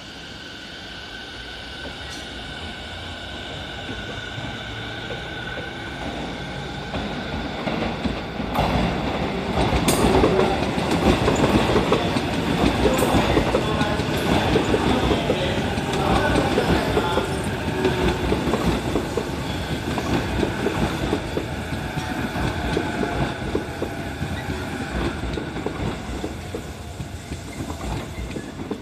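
Electric commuter train running along the rails past the platform end. It grows louder over about ten seconds, then carries on with wheels clattering over rail joints and a steady high whine.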